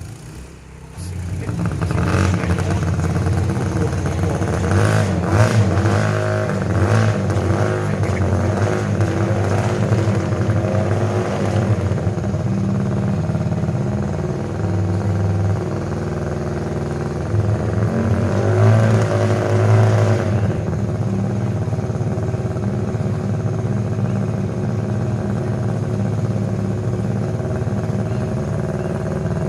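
Honda RC143 125cc four-valve twin racing engine with bevel-gear-driven cams firing up about a second in, then blipped to higher revs twice, around five seconds and again near twenty seconds, before running steadily at a fast idle.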